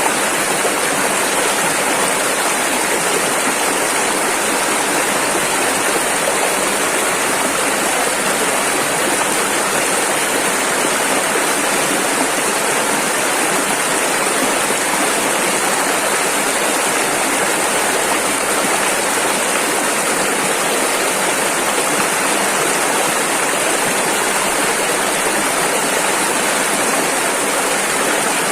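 Rushing river water: a steady, loud rush of fast-flowing rapids with no change.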